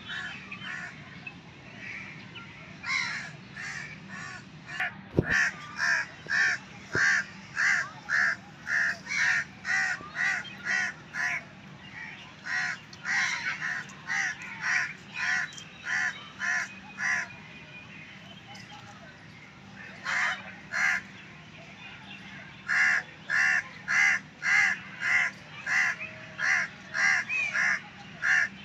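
Harsh bird calls repeated about twice a second in long runs, breaking off for a few seconds past the middle.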